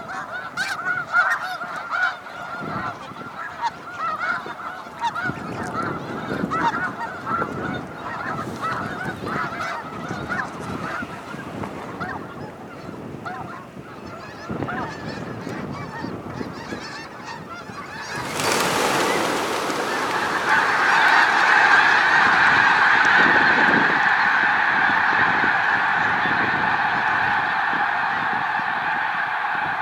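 Large flock of waterbirds calling, honking calls overlapping. At first the calls come scattered. About 18 seconds in, a sudden rush of noise comes and the calling swells into a dense, loud chorus.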